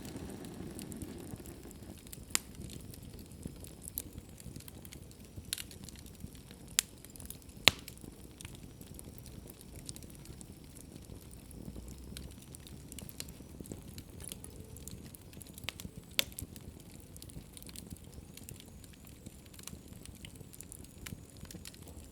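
Wood fire crackling in a fireplace: a steady low rustle of flames with scattered sharp pops, the loudest about a third of the way through.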